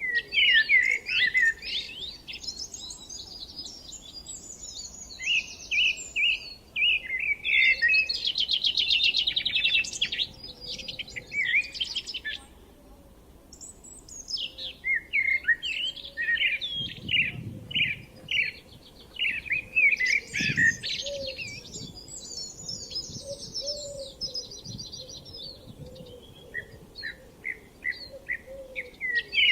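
Songbirds singing: long, varied phrases of chirps and rapid trills, with a short pause about halfway through.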